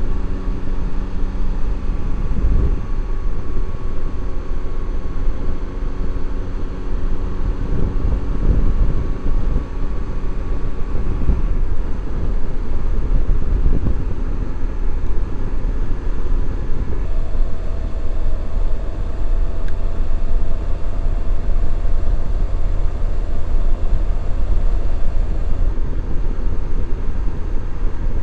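Motorcycle engine running at road speed under heavy wind rumble on the microphone, its pitch shifting a few times as the speed changes.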